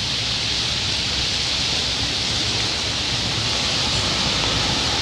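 Heavy rain falling in a steady, dense hiss, with the low rumble of traffic on the wet road beneath it, growing slightly louder near the end as a bus comes close.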